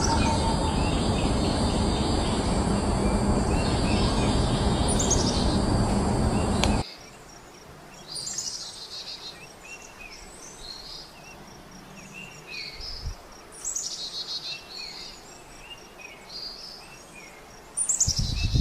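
Wild birds calling and chirping over a loud, steady rushing background noise that cuts off abruptly about seven seconds in. After the cut, varied short, high bird chirps and calls stand out over a quiet background, until a loud rushing sound starts again just before the end.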